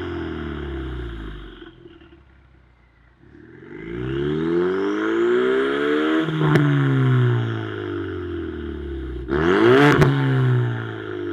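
Ford Mustang 2.3 EcoBoost turbocharged four-cylinder revved through its variable exhaust: the revs fall away to near idle, climb slowly, drop back, then a quick sharp blip about nine seconds in. A sharp crack sounds at the top of each of the last two revs.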